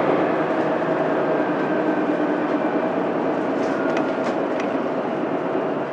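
Mitsubishi Fuso Aerostar city bus under way, heard from inside: the 6M70 diesel engine and road noise run steadily with a low drone and a faint whine, easing off gradually. A few light clicks come about four seconds in.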